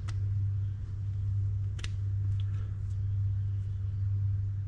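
Steady low hum with two light clicks, about a second and a half apart, from small reel parts being handled.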